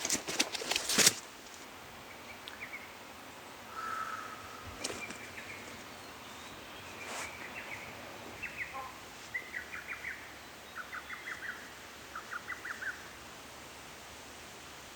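Small birds singing in woodland: a short call, then several quick trills of repeated notes over the last half. A few loud clicks and knocks in the first second.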